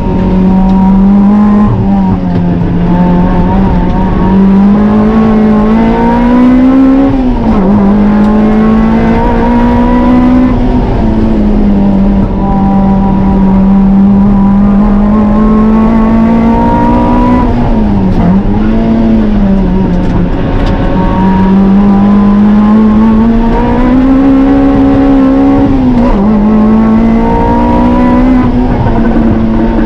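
Toyota MR-S engine running hard through a track lap. The engine note climbs slowly and drops sharply three times, about 7, 18 and 26 seconds in, as the car shifts and brakes for corners.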